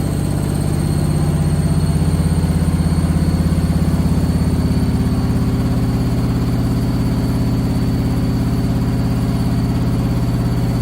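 Candy SmartTouch washing machine in its final spin with an extremely unbalanced load. There is a steady low drum-and-motor hum with a fast, even pulsing at each drum revolution, and a thin high whine over it. It swells a little louder about two seconds in, then holds steady.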